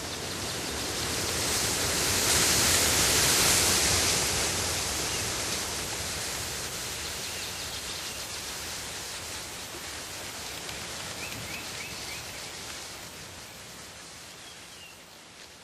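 Outdoor nature ambience: a steady rushing noise that swells over the first few seconds and then slowly fades, with a few faint bird chirps.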